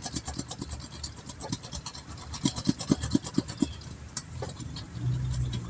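Tire-patch stitcher roller worked firmly over a freshly cemented patch inside a tire, pressing it down to bond: a fast, even run of clicks, with about six heavier knocks in a row about halfway through.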